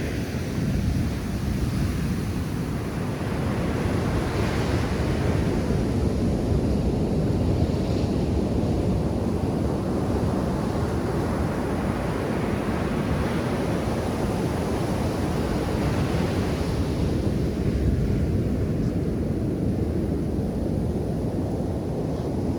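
Ocean surf breaking and washing up a beach, a steady rushing that swells every few seconds as waves come in, with some wind rumbling on the microphone.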